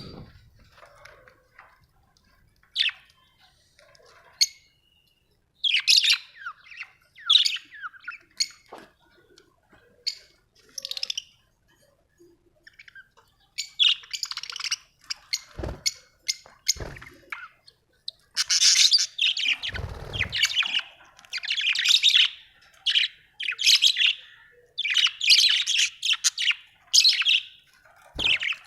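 Budgerigars chirping and chattering in short, high bursts, sparse at first and then busy and nearly continuous over the second half. A few dull thumps sound in the middle.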